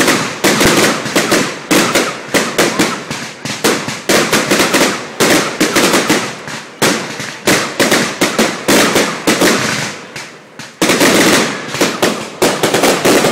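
Fireworks going off in a dense, irregular string of sharp bangs and crackles, several a second, each with a short echoing tail. After a brief lull about ten seconds in comes a dense cluster of reports.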